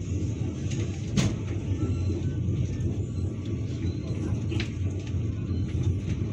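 Steady low rumble of a moving passenger train heard from inside the carriage, wheels running on the track, with one sharp click about a second in.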